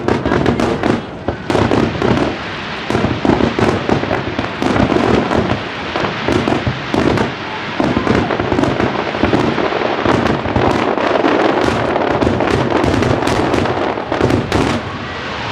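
Aerial fireworks in a heavy barrage: dense, overlapping bangs and crackles with no gaps, the bursts following one another several times a second.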